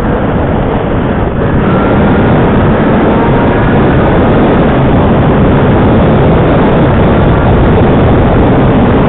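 Motorcycle riding along at speed: the engine note runs under a loud, steady rush of wind noise on the microphone.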